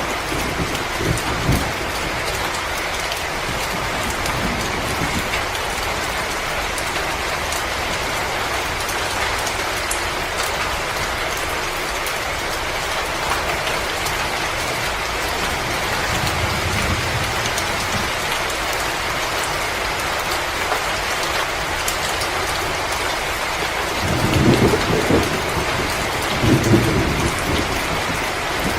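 Wood fire burning in a fireplace: a steady hiss with many fine crackles throughout. Low rumbling swells come in near the end, twice.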